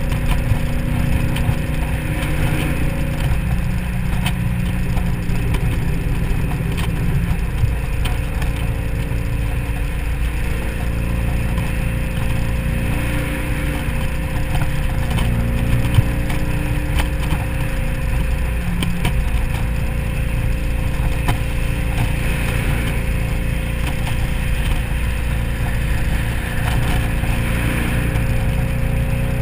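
2003 SVT Mustang Cobra's supercharged 4.6-litre V8 running steadily at highway cruising speed, its pitch drifting slightly up and down. The engine is mixed with rushing wind and tyre noise from driving with the convertible top down.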